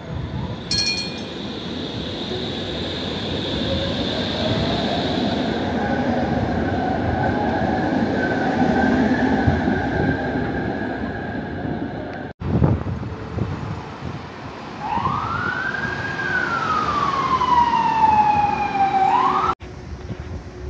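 Street traffic noise: a vehicle's running noise swells with a slowly rising whine. After a cut, a loud tone slides up, falls slowly and rises again.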